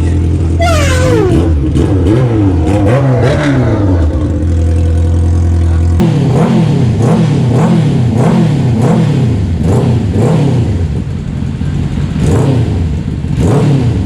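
Honda CB400 inline-four engine being revved over and over with quick throttle blips, its pitch rising and falling again and again, with the CDI fault fixed and the carburettors freshly synchronised.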